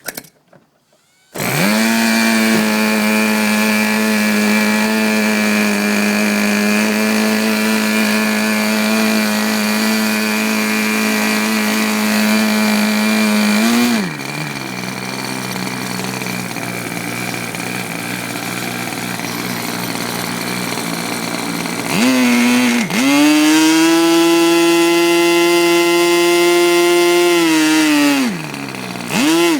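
Tower 40 two-stroke glow engine for RC models running loudly with a sharp buzz. It comes in suddenly about a second in and runs at a steady high speed, is throttled back to a lower idle about halfway through, then is opened up to a higher full-throttle pitch and dips briefly near the end.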